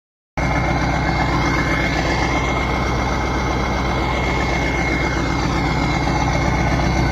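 Kirovets K-700 tractor's diesel engine idling steadily while warming up, with a thin steady high whine over the low engine hum.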